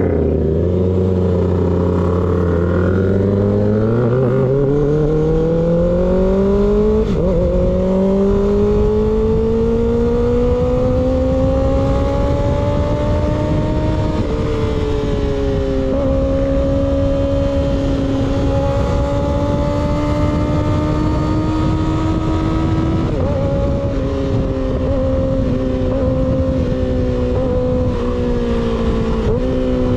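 Sport motorcycle with a baffle-less slip-on exhaust, running under load: the engine pitch climbs steadily from a low speed for over ten seconds with a brief dip partway, then holds at a steady cruise with a few short throttle-off dips.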